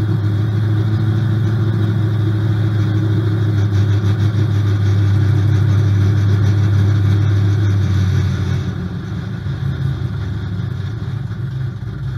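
Big-block V8 of a Cutlass drag car running at low speed with a deep, steady drone, heard from inside the cabin. About eight and a half seconds in it drops quieter.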